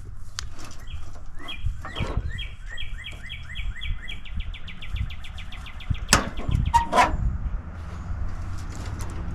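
A bird singing a series of short, high chirps that speed up into a fast trill, followed by a few sharp knocks about six and seven seconds in.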